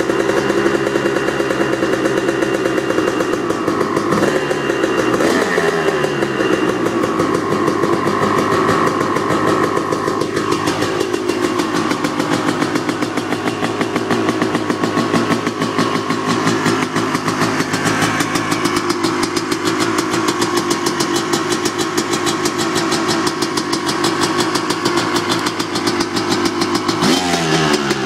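2007 Honda CR250's single-cylinder two-stroke engine with a Pro Circuit exhaust running just after a cold start, idling fast and steady. The revs rise and fall briefly a few seconds in and again near the end.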